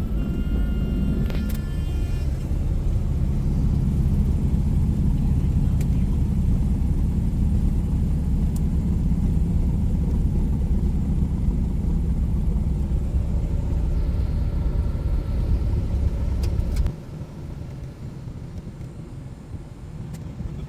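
Cessna 177 Cardinal's engine and propeller running with a steady low drone, which drops abruptly to a quieter rumble near the end.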